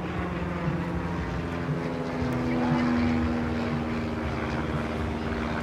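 A vehicle engine running steadily, briefly louder about halfway through as if lightly revved.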